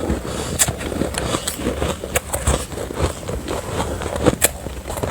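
Refrozen soft ice being chewed close to the microphone: a continuous sandy, grainy crunching with a few sharper crunches, about half a second, two seconds and four and a half seconds in.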